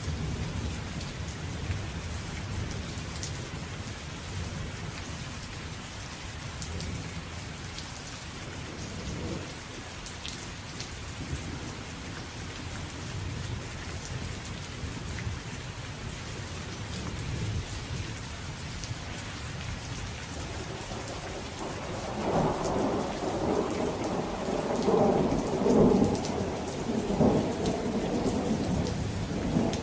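Steady rain with rolling thunder: low rumbles come and go, and a louder, longer peal of thunder builds up about 22 seconds in and rolls on to the end.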